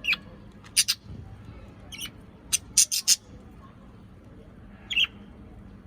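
Pet parrot giving short, sharp, high-pitched calls, about ten in all, in small bunches.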